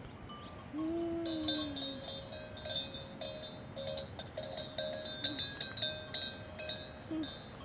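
Many livestock bells clanking together irregularly, like bells on a moving flock of sheep or goats. One low drawn-out call sounds about a second in.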